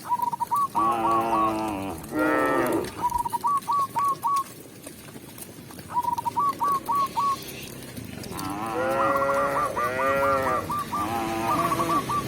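Cows mooing: two long moos close together near the start, then a longer run of moos later on. Between the moos, runs of four or five short whistled notes repeat every couple of seconds.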